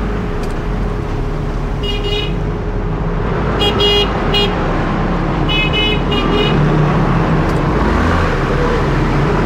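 Car horn honking in several short clusters of quick beeps over steady street traffic noise.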